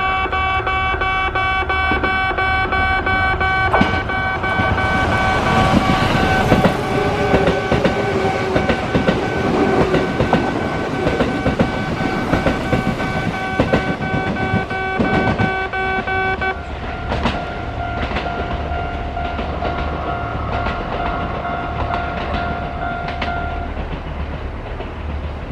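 Kintetsu train running past on the line, its wheels rumbling and clacking over rail joints. A steady held chord of tones sounds throughout and changes to a different set of notes about two-thirds of the way through.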